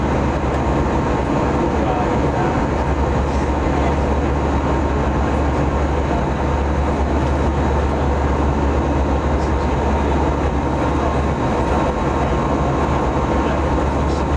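Steady airliner cabin noise in flight: jet engine drone and rushing air, with a deep steady hum and a faint thin tone above it.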